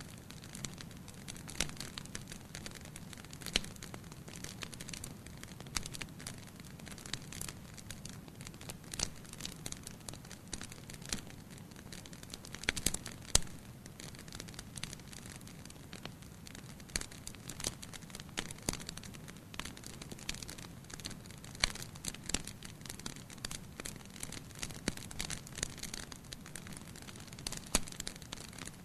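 Wood fire burning in a fireplace, crackling and popping irregularly over a low steady hiss of the flames, with a few louder pops scattered through.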